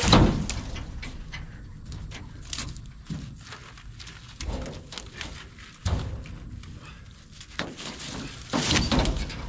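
Irregular thumps, knocks and rustling from cut branches and wood being handled, dragged and dropped. The heaviest thud comes right at the start, with another rough, noisy burst near the end.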